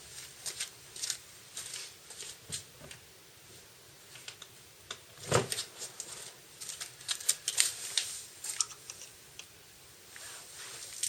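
A run of irregular light clicks and taps of hand work with tools and small parts, with one louder knock about five seconds in.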